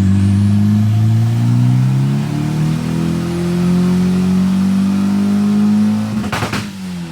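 Turbocharged Honda F23 four-cylinder engine pulling under load, its revs climbing steadily for about six seconds, then a short hissing burst as it lets off and the revs fall. It is running with new coil packs in place of a failed one, and no break-up is heard on this pull.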